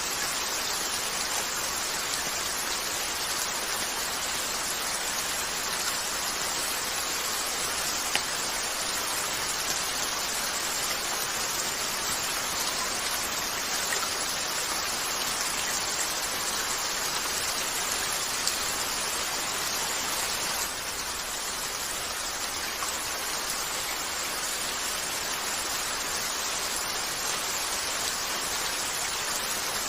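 Steady rain hiss, with a few isolated sharp clicks, the loudest about eight seconds in; the hiss drops slightly about two-thirds of the way through.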